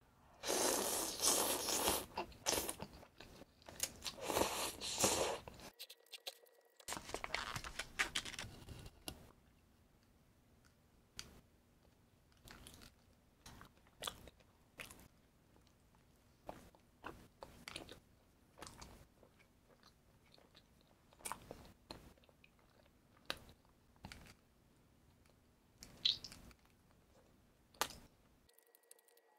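Crunchy food being bitten and chewed: loud, crackly crunching for the first several seconds and again briefly after a short pause, then quieter chewing with scattered soft clicks and mouth sounds.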